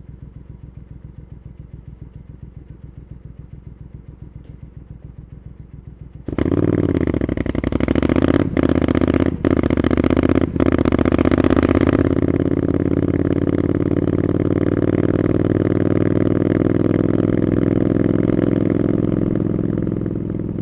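Triumph Scrambler 900's parallel-twin engine with Arrow exhaust, pulsing evenly at low revs, then suddenly opened up loud about six seconds in, with three short breaks in the sound like gear changes, before settling into a steady drone.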